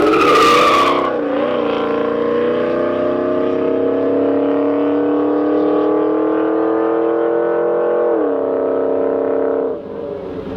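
A drag race car's engine under hard acceleration down the strip, its pitch wavering at first, then climbing steadily for several seconds. About eight seconds in the pitch drops sharply, and the sound gets quieter near the end.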